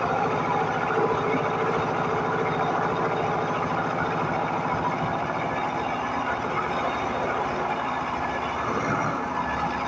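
Milling machine running steadily, its cutter machining a metal T-nut, with a fast even pulsing.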